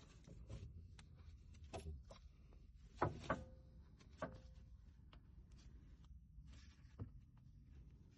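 Scattered light clicks and knocks, with two sharper knocks close together about three seconds in and another about a second later, each of these leaving a short ringing tone.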